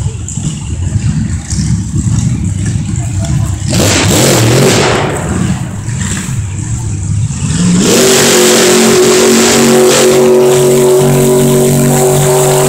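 Big-engined off-road truck revving hard. It rumbles low for the first few seconds, surges around four seconds in, then climbs and holds loud, steady high revs from about eight seconds in.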